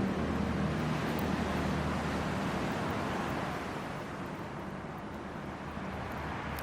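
Hardwood campfire burning in a small fire stand: a steady rushing of flames with a few faint crackles, easing off a little in the second half.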